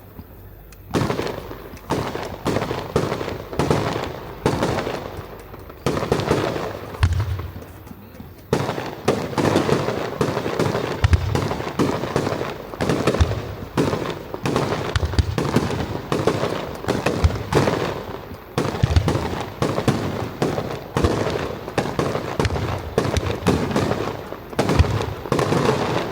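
Aerial fireworks shells bursting in a continuous barrage: rapid cracks several times a second, with deeper booms every few seconds. The barrage thickens about eight seconds in, typical of the final programme of a fireworks display.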